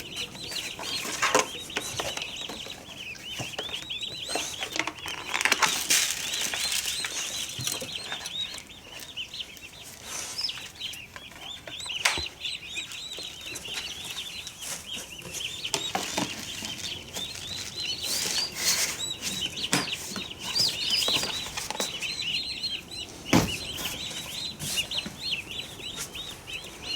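A flock of turkey poults peeping continuously, many short high chirps overlapping, with a few sharp knocks here and there.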